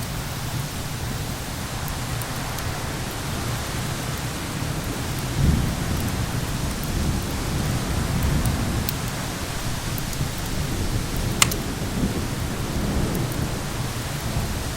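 Wood fire in a fireplace crackling over a steady rush of rain and wind, with low rolling thunder swelling twice. There are a few sharp pops from the fire, the loudest about eleven seconds in.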